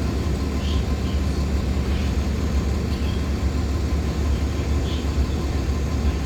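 Cabin sound of a 2014 Nova Bus LFS Artic hybrid bus under way: a steady low rumble from its Cummins ISL9 diesel and driveline, with a few faint, short, high-pitched squeaks.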